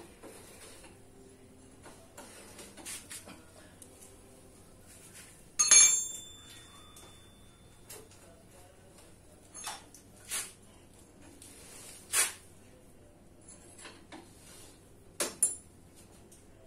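Metal tools and parts clinking and knocking in a handful of separate strikes during motorcycle wheel-bearing work. The loudest strike, about six seconds in, rings briefly.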